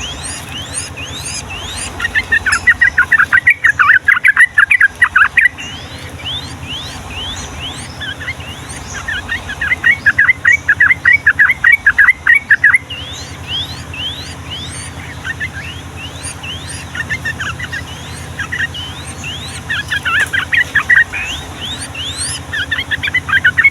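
Yellow-vented bulbuls singing: several long bursts of fast chattering notes, each lasting a few seconds, over a running series of short rising notes.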